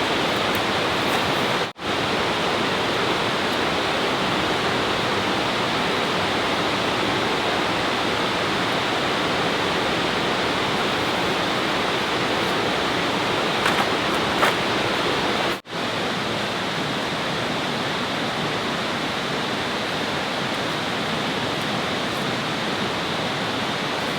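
Steady rushing of flowing water, broken by two brief dropouts, about two seconds in and about fifteen seconds in.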